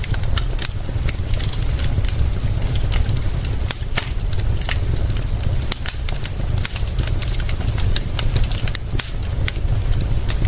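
Wood fire crackling, with frequent irregular sharp pops over a steady hiss and a low rumble.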